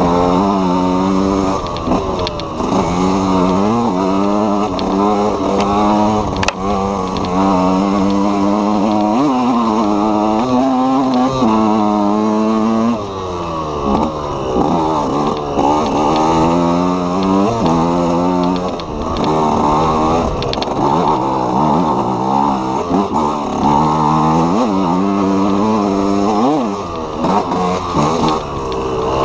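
KTM EXC 125 two-stroke single-cylinder enduro motorcycle engine being ridden hard, its pitch rising and falling again and again as the throttle is opened and closed.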